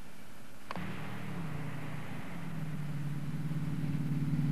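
Car engine under load as the car is driven hard off-road, its note changing about a second and a half in and growing louder toward the end. A single sharp click about a second in.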